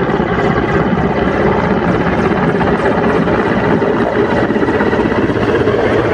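Helicopter flying close, its rotor and engine making a loud, steady, rapid chopping drone.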